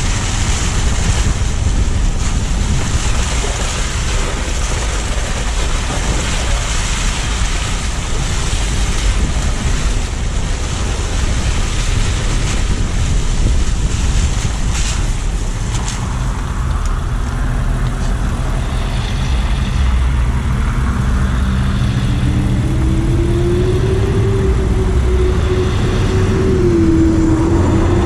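Car driving, with steady road and tyre noise and a low rumble. In the second half an engine tone rises and holds as the car picks up speed, then dips near the end.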